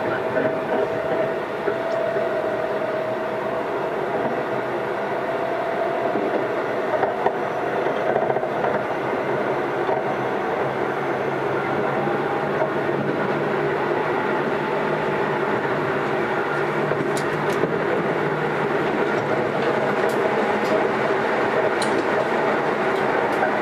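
Running sound inside a Keisei AE100 series train car at speed: a steady rumble of wheels on rail with a faint whine that rises slightly in pitch over the first several seconds and a few light clicks later on. The weak air-conditioning blower is running underneath.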